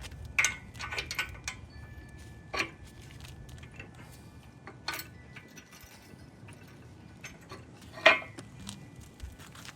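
Scattered metallic clanks and clicks of tools and parts being handled around a cast-iron engine block, four stronger knocks among lighter ticks, the loudest about eight seconds in.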